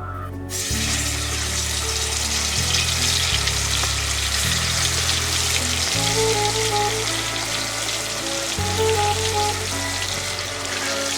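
Food frying in a pan, a steady dense sizzle that starts suddenly about half a second in. Background music with held bass notes and a light melody plays along.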